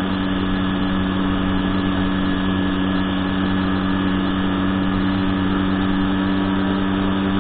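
Small motorbike engine running at a steady cruising speed, a constant even hum with road and wind noise underneath.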